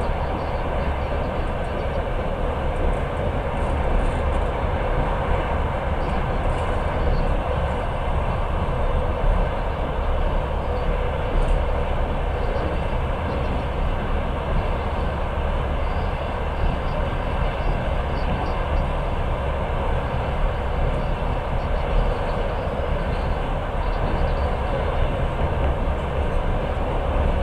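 Passenger train running steadily on the rails, heard from inside the carriage: an even, continuous rumble of wheels and running gear.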